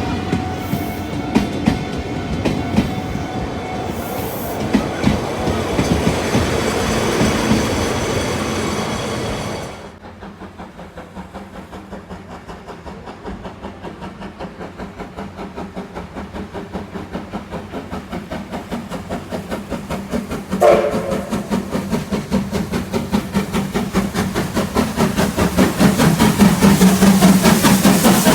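A train running on rails, loud for the first ten seconds, then cut off abruptly. It is followed by a train approaching, its regular clickety-clack over the rail joints growing steadily louder, with a short tone heard about two thirds of the way in.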